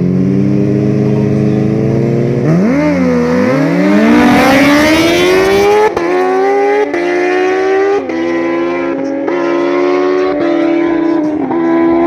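Motocross dirt bike engine revving hard, its pitch climbing as it accelerates. It then shifts up through the gears, each shift a short drop in pitch followed by a rise, about once every second or so.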